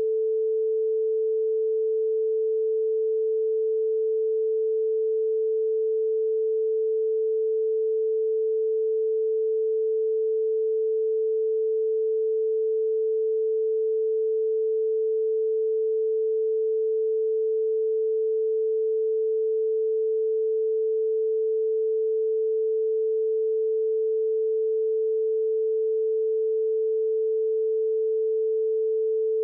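A single steady electronic tone held at one pitch without a break, with no other sound over it.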